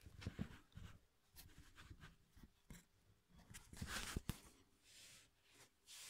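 Faint, scattered clicks and light knocks with brief rustling, against near silence.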